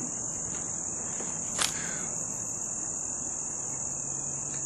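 Crickets chirping as a steady high-pitched drone, with one sharp click about a second and a half in.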